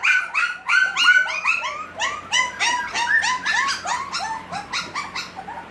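A litter of six-week-old Havanese puppies crying: many short, high-pitched whines overlapping, several a second, getting somewhat quieter towards the end.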